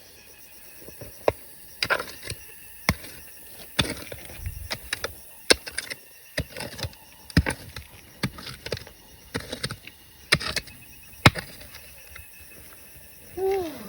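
Irregular sharp clicks and knocks of rocks and gravel clattering, stones being worked by hand and tool while digging for gold. A brief voiced sound near the end.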